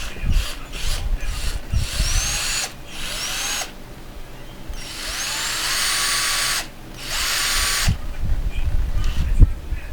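JLD Tool cordless drill motor run in four short bursts, spinning up to speed with a rising whine each time; the third run is held for about two seconds. Knocks and handling of the drill come before and after the runs.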